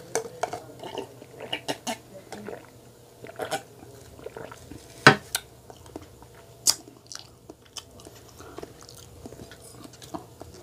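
Mouth sounds of a person swallowing orange juice and chewing a chocolate-coated marshmallow donut: many short, wet clicks and smacks, with one sharp knock about five seconds in.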